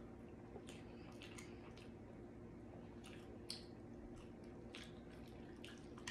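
Faint wet chewing and lip-smacking while eating saucy barbecue rib tips, with sauce sucked off a gloved finger, in scattered short clicks and smacks; the sharpest smack comes about three and a half seconds in.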